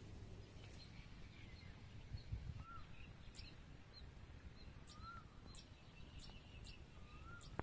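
Faint birdsong: scattered short high chirps and three curved, rise-and-fall whistled notes a couple of seconds apart, over faint low background noise.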